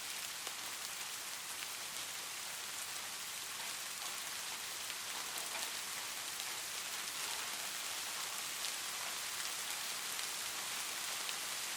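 Light rain falling steadily, a soft even hiss with faint ticks of single drops.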